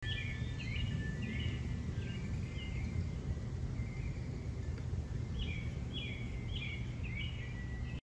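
Outdoor ambience: a steady low rumble, over which a songbird repeats short chirped notes about twice a second, in one run at the start and another in the last few seconds.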